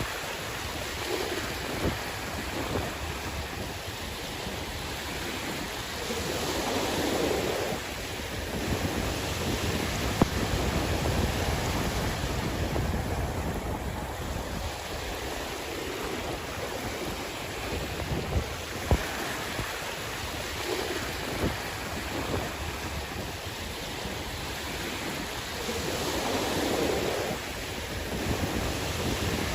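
Sea waves washing onto the shore in a continuous surf, swelling louder a quarter of the way in and again near the end. Wind rumbles on the microphone.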